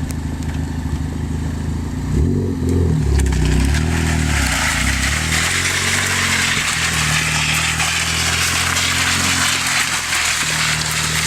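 Ford Focus ST engine running, revving hard about two seconds in. From about four seconds in, a loud, steady scraping hiss joins it as the car moves off with its wheels sliding on plastic McDonald's trays over the pavement.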